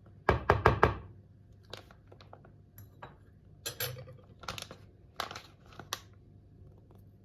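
Kitchen dishes and utensils knocking and clinking: a quick run of four or five sharp knocks near the start, then scattered taps and clinks.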